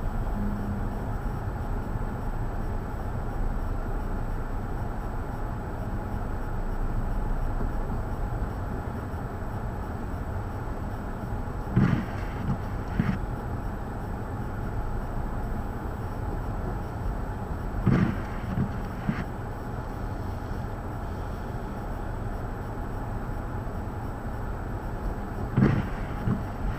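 Steady low rumble of blizzard wind, with a few short knocks: a pair about halfway through, another pair later, and one near the end.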